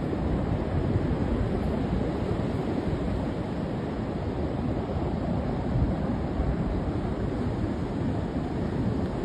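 Steady, even rushing noise, heaviest in the low range, with no distinct events.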